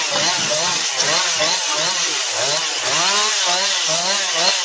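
Two-stroke chainsaw running and cutting branches, its revs rising and falling over and over.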